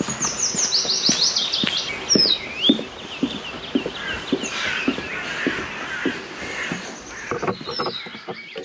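Songbirds singing, with a quick run of falling notes in the first two seconds and more song after. Footsteps on a path, about two steps a second, run underneath.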